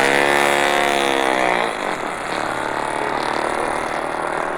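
Motorcycle engine sound effect: the engine note falls in pitch over the first two seconds, then settles into a steadier running sound.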